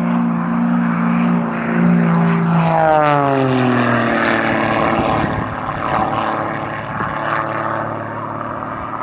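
Propeller airplane flying past, its engine drone dropping in pitch about three seconds in as it goes by, then running on at the lower pitch.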